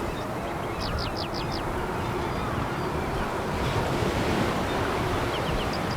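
Sea waves breaking and washing over a pebble beach, a steady rush of surf. A quick run of five short high chirps comes about a second in.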